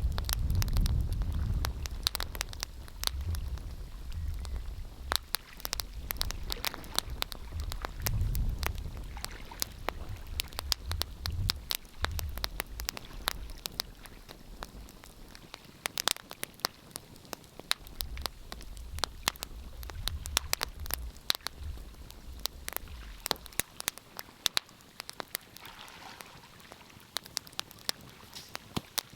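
Wood fire crackling, with frequent sharp pops and snaps. A low rumble comes and goes under it and dies away about two-thirds of the way through.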